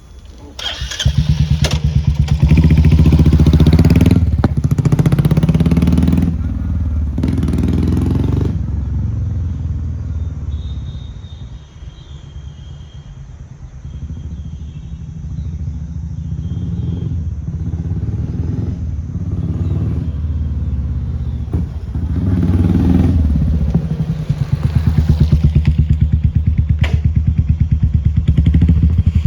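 Royal Enfield Meteor 350's single-cylinder J-series engine running through an aftermarket Globe Dolphin silencer, riding by with a deep thump: loud and revving over the first several seconds, dropping away in the middle, then coming back up loud and steady before cutting off at the end.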